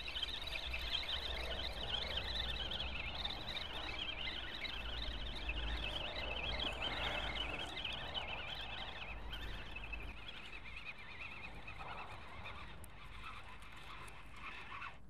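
A flock of birds calling together in a dense, continuous chatter, over a steady low rumble. The calls fade somewhat in the second half.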